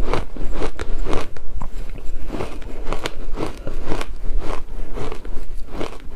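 Shaved ice being bitten and chewed close to the mouth, with a quick run of crisp crunches, a few each second.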